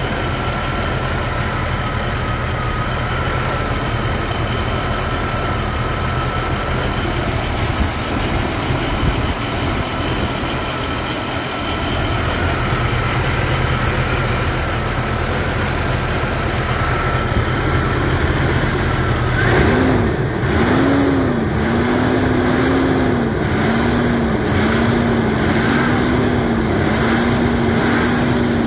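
1988 Jeep Cherokee XJ engine idling shortly after a cold start, with a thin steady whine over it. About two-thirds of the way in, the engine is revved up at the throttle and held at raised revs, dipping and climbing a few times before settling.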